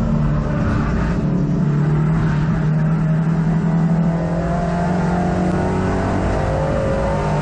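Hot hatch race car's engine running hard, heard from inside the car. Its pitch holds fairly steady, then dips slightly about four seconds in.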